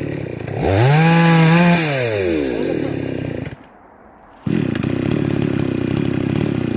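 Chainsaw engine idling, revved up once about half a second in and held for about a second before dropping back to idle. The sound cuts out for about a second in the middle, then the idle resumes.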